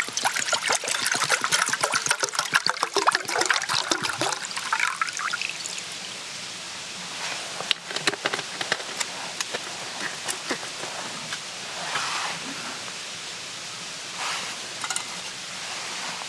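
Liquid being poured for about five seconds, a dense trickling hiss with many small clicks, followed by scattered light clicks and a few brief soft rustles.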